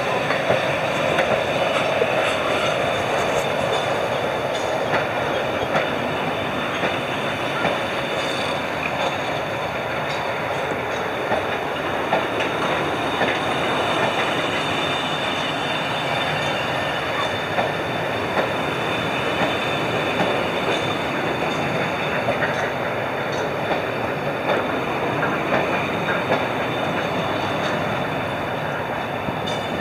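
A train running on the rails close by: a steady, even rumble of wheels and running gear with scattered faint clicks.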